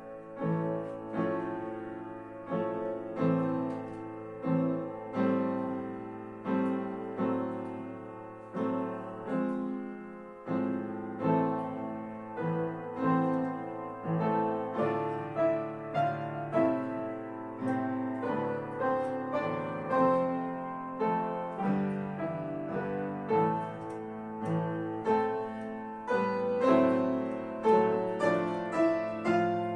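Piano playing a concerto movement in A minor, with a steady run of struck notes and chords, a fresh attack about every half second to second.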